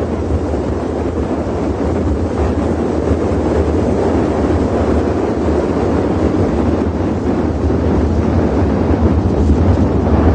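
BMW E92 M3's V8 engine and exhaust running with a low, steady rumble, buried in heavy wind noise on the microphone, slowly getting louder.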